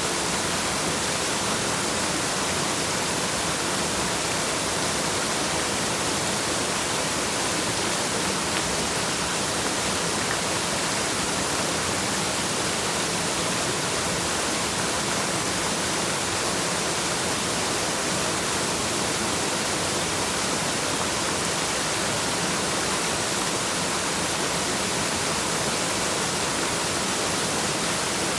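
Waterfall: a steady, unbroken rush of falling water, with no separate splashes or changes.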